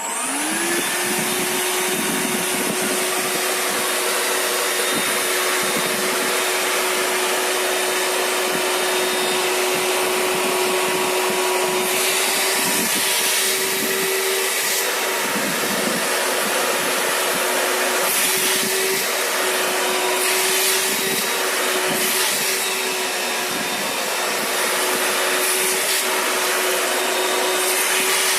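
Hoover HW-FMC-KA cordless wet vacuum cleaner's motor spinning up at the start, then running with a steady whine over the rush of suction as it picks up spilled coffee from the floor. The suction hiss swells briefly now and then.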